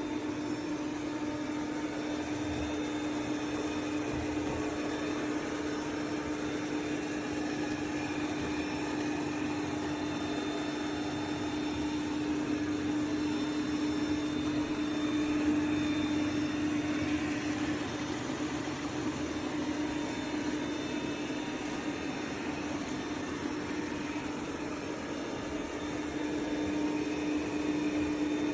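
ECOVACS Deebot T50 Omni robot vacuum running: a steady motor hum with one constant low drone over a fan-like hiss.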